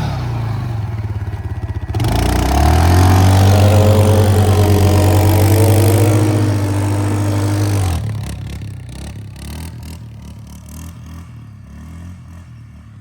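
Motorcycle engine running, then revved hard and held for several seconds under throttle; about eight seconds in it drops off sharply and fades away, with scattered clatter and scraping near the end.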